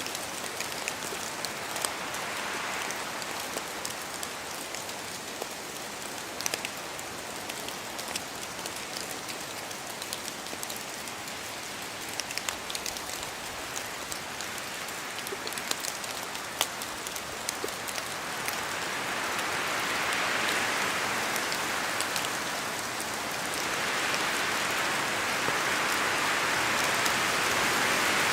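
Steady rain in a forest, with many separate drops falling from the trees as sharp clicks over an even hiss. In the last third the hiss swells louder twice, as gusts of wind pass through.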